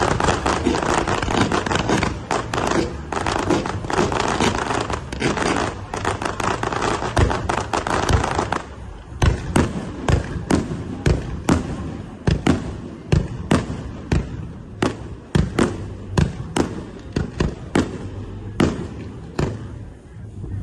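Aerial fireworks going off: a dense barrage of overlapping bursts and crackle for about the first eight seconds, then separate sharp bangs at roughly two a second.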